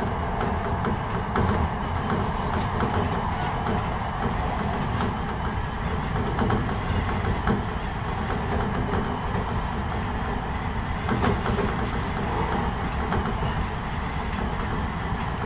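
Enshu Railway electric train running along the track, heard from the driver's cab: a steady rumble of wheels on rail with scattered clicks from rail joints.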